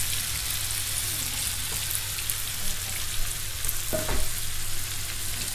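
Flour-dusted fish pieces shallow-frying in sunflower oil and butter: a steady sizzle with light crackles.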